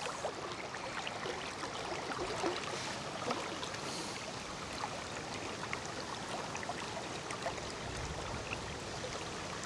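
River water running steadily, with faint small ticks scattered through it.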